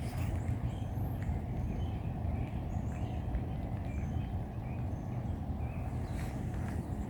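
Steady low rumbling outdoor noise, with faint short bird chirps scattered through it.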